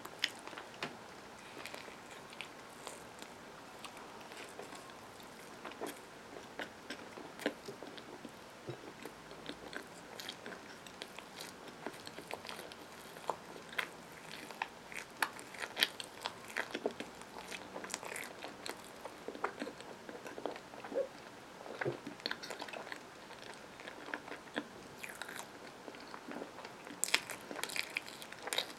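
Close-up chewing of a soft peanut butter and marshmallow sandwich on bread, with many sharp mouth clicks and smacks, thickest near the end.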